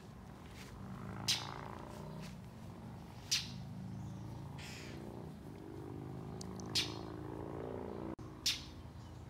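A bird's short, sharp scolding calls, about four in a row a second or two apart: a parent bird defending its young in a small tree against a dog. A low wavering hum runs underneath.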